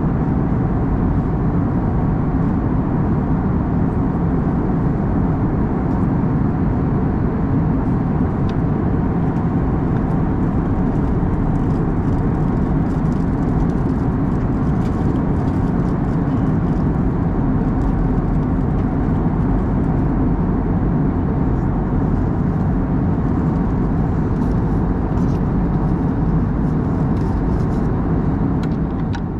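Steady in-flight cabin noise of an Airbus A321neo: unchanging engine and airflow noise heard from inside the passenger cabin.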